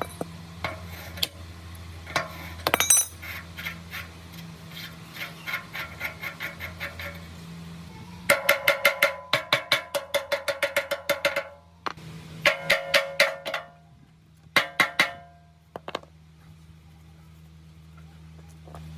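Rapid metal-on-metal strikes with a ringing tone, in three runs of several quick strikes each over about 7 seconds, above a steady low hum.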